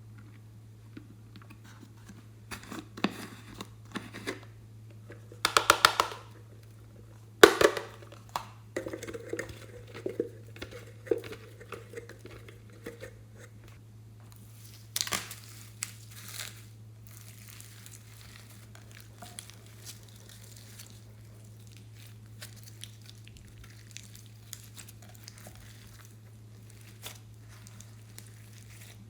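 Slime being worked by hand: irregular crinkling and crackling, in short clusters that are loudest in the first half, then only scattered faint crackles, over a steady low hum.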